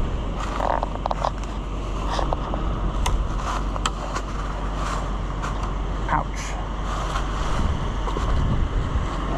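A vehicle's engine running steadily while driving, with wind noise and scattered sharp clicks and rattles.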